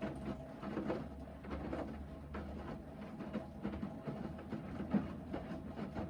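Hoover VHD 9163 ZI washing machine in its main wash: the drum motor hums steadily as the drum tumbles wet laundry, with irregular sloshing and soft thuds.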